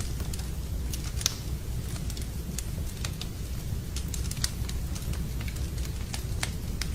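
Campfire of burning wood crackling, with irregular sharp pops over a steady low rumble.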